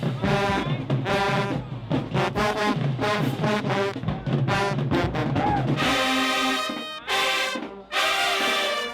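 Marching band brass section playing a short, punchy repeated figure over a heavy low end, then switching about six seconds in to long held chords with two brief breaks.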